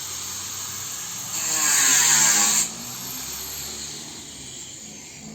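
A power tool running, with a louder, brighter burst in the middle lasting about a second and a half, then it settles back down and cuts off suddenly at the end.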